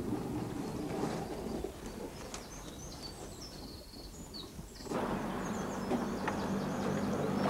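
Small birds chirping in short high calls over a low, steady rumble. The rumble fades in the middle, where the chirps stand out most, and comes back about five seconds in.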